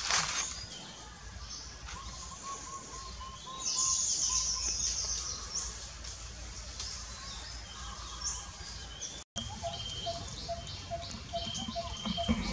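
Forest birds calling over a low background rumble. A run of even repeated notes comes about two seconds in and a bright chattering burst around four seconds. After a brief dropout near nine seconds, steady rows of repeated notes follow at two pitches.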